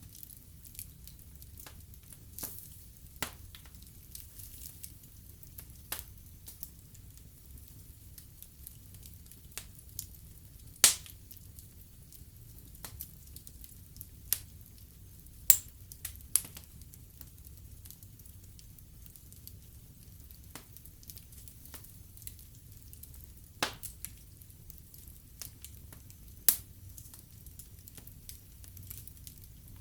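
Wood fire burning in a fireplace: a steady low rumble of flames with scattered sharp crackles and pops, the loudest snaps coming a handful of times at irregular intervals.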